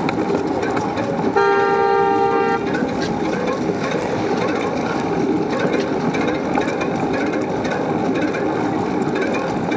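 A vehicle horn honks once for about a second, a chord of a few steady tones, over a constant rushing noise of traffic and moving air.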